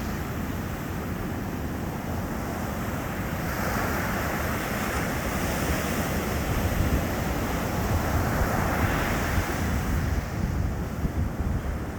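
Sea waves breaking on a beach: a steady low rumble of surf, with a wave crashing and foaming up from about three and a half seconds in and washing away near the end.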